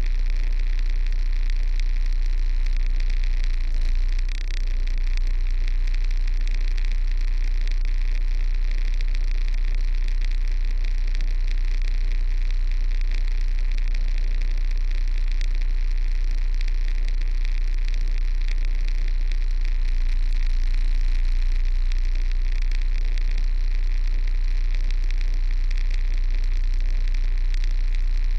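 Heavy truck's diesel engine running steadily, a deep constant rumble with a steady hiss over it, with a brief dip about four seconds in.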